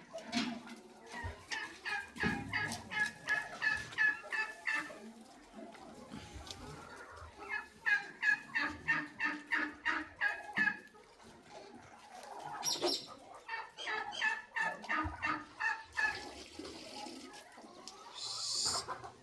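A bird calling in three long runs of quickly repeated notes, about three to four notes a second.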